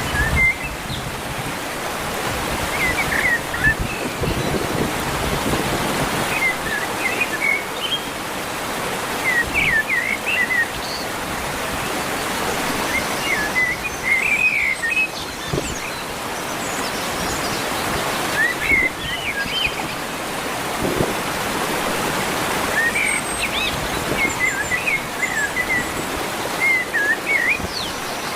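A songbird singing short chirping phrases again and again, every few seconds, over a steady rushing background noise.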